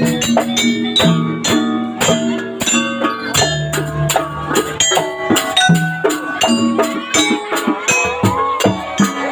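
Live gamelan-style ensemble music accompanying a Banyuwangi jaranan dance, with a steady beat of drum and metallic percussion strokes under pitched melodic notes.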